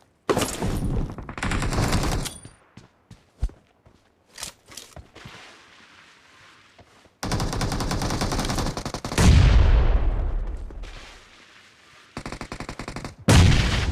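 Video-game gunfire: bursts of rapid automatic fire with scattered single shots between them. A louder shot with a heavy low boom comes about nine seconds in and dies away over a couple of seconds.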